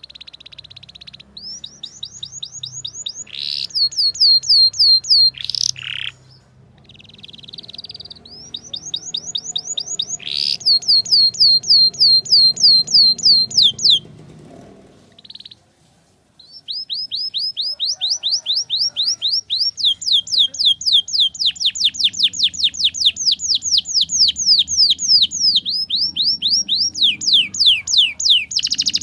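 Domestic canary singing rapid trills of quick, high, falling notes repeated several times a second. The song comes in three phrases with short breaks between them, and the last phrase runs for over ten seconds.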